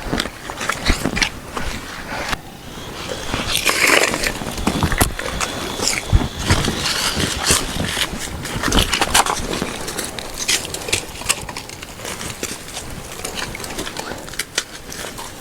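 Close, irregular handling noises: knocks, clicks, scraping and rustling, as of camp gear or materials being worked by hand.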